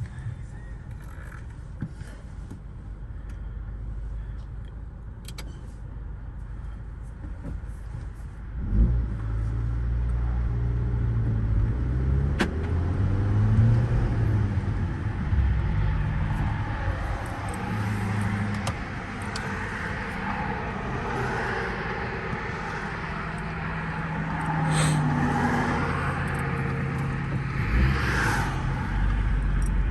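2014 Audi A4 2.0T's turbocharged four-cylinder engine running steadily, then pulling away about eight or nine seconds in, with its note climbing and stepping as the car is driven through the gears. Road noise grows in the second half.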